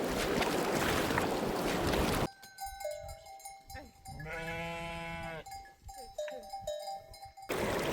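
Rushing river water, cutting off suddenly after about two seconds to a quiet stretch in which a sheep gives one long bleat, with a few faint steady ringing tones around it; the river noise cuts back in near the end.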